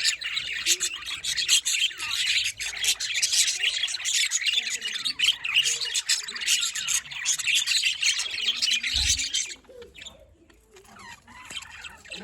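Budgies and lovebirds chirping together in a dense, continuous chatter that drops away sharply about three-quarters of the way through, with a brief low thump just before the drop.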